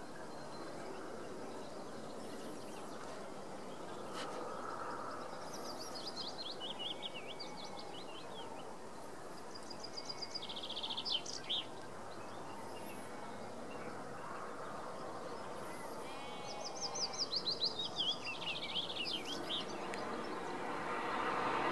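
Songbirds singing in several rapid chirping phrases over a steady outdoor hiss. In the last couple of seconds the rushing noise of an approaching electric train begins to swell.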